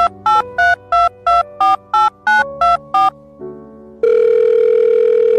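Electronic beeping tune: about ten short beeps at changing pitches in quick succession, then one long steady beep about four seconds in, over a held synth chord.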